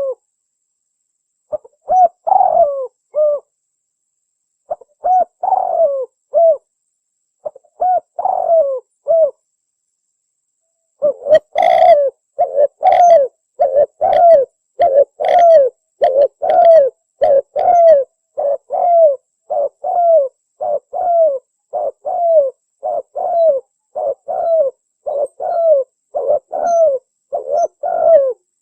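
Spotted dove (tekukur) cooing: three short phrases of a few coos each separated by silent pauses, then, about a third of the way in, a fast unbroken series of coos at about two a second. It is a recorded call of the kind played as a lure to draw tekukur in.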